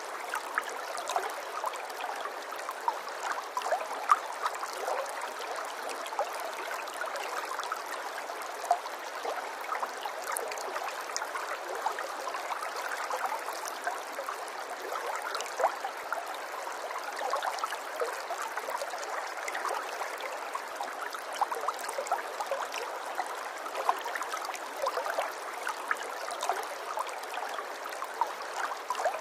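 Running water trickling and gurgling steadily, with a constant stream of small splashy plinks.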